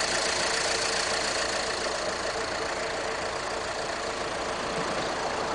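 A vehicle engine idling steadily, with an even hum.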